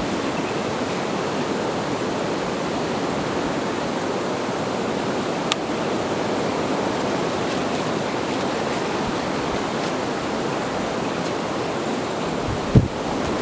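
Steady, even wash of heavy surf breaking on a beach, mixed with wind. There is a single sharp click about five and a half seconds in, and a brief low thump near the end.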